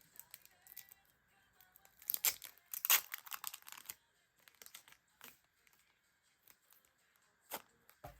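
Packaging being torn open and crinkled by hand: a dense burst of tearing about two to four seconds in, with scattered rustles and clicks around it.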